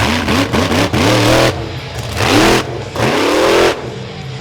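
Monster truck engine revving hard: a few quick throttle blips, then three longer revs with the pitch climbing each time. It drops back to a lower rumble near the end.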